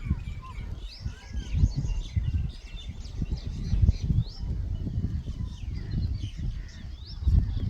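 Small songbirds chirping: many short, quick chirps and rising notes overlapping one another, over a louder, uneven low rumble.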